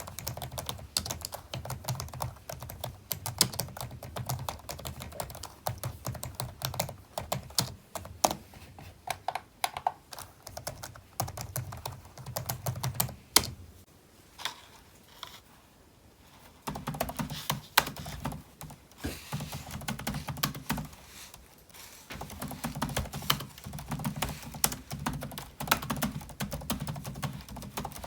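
Computer keyboard being typed on quickly, a dense run of key clicks. The typing pauses for about two seconds in the middle, then resumes.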